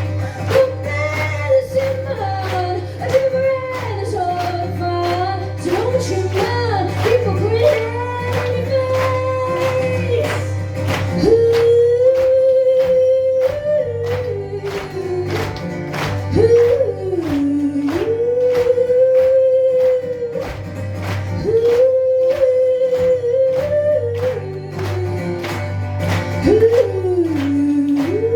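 A woman singing a blues song live, with long held and sliding notes, over a steady percussive beat of about two to three hits a second.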